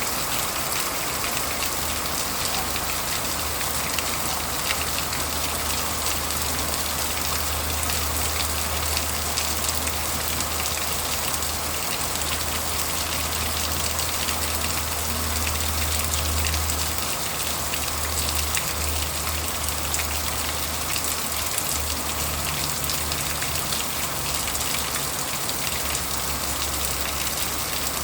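Heavy rain falling: a dense, steady hiss of countless drops hitting surfaces. A low hum runs underneath, wavering and breaking up in the second half.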